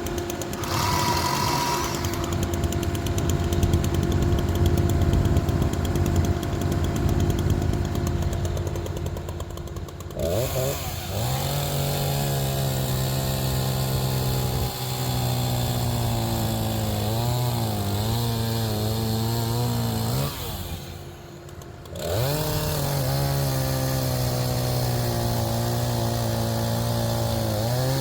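An engine runs steadily at first. Then, about ten seconds in, a chainsaw revs up and cuts through a log, its pitch wavering and dipping as the chain loads in the wood. Near the end it lets off briefly and revs up again for a second cut.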